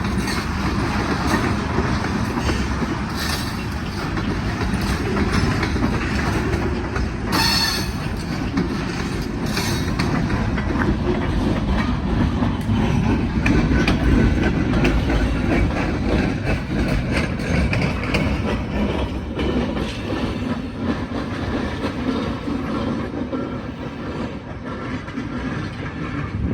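Freight train cars rolling past at close range: a steady rumble of steel wheels on rail, with a rapid clickety-clack of wheels over rail joints. It grows loudest about halfway through and eases a little toward the end.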